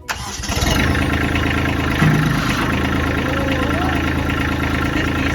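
An engine idling steadily and loudly, cutting in abruptly.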